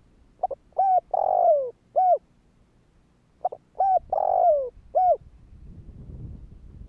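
Spotted dove cooing in two matching phrases about three seconds apart, each a few short coos around one longer coo that falls in pitch. It is the call played as a lure to draw wild doves.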